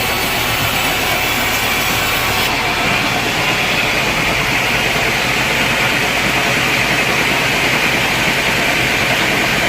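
Sawmill machinery running steadily through a teak log cut, a loud continuous mechanical noise; the high hiss drops away about two and a half seconds in.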